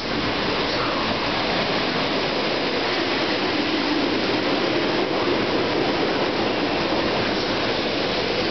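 SEPTA GE Silverliner IV electric multiple-unit cars rolling past as the train pulls into the station. A steady rush of wheels on rail and running gear.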